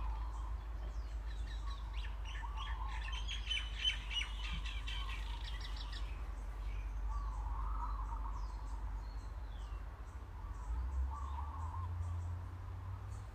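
Small birds chirping and singing: warbling calls come and go, with a run of quick high trills from about two seconds in, over a low steady hum.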